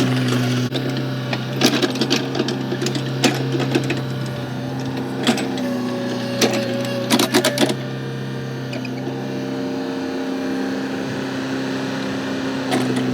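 Komatsu excavator's diesel engine running steadily, with sharp clanks and knocks from the machine working, clustered in the first half. A higher whine comes in about six seconds in and again near the end.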